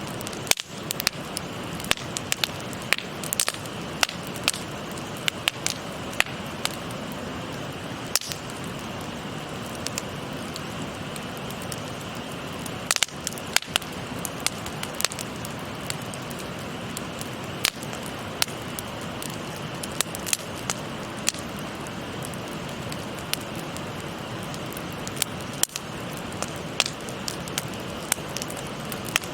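Wood fire crackling with frequent sharp, irregular pops, over the steady rushing of a babbling stream.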